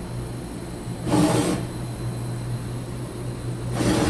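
Mazak HCN 4000-III horizontal machining center running its Z axis back and forth at full rapid during a ball screw test: a steady machine hum, broken by a brief rushing burst about a second in and another near the end as the axis makes its strokes. The ball screw and thrust bearings are judged to sound good, with no noise of concern.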